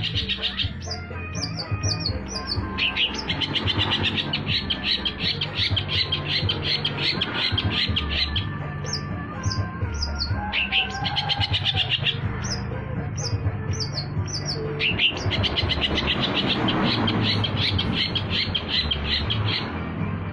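Long-tailed shrike (cendet) singing: long runs of rapid chattering notes broken by small groups of short, falling high whistles, in repeated phrases.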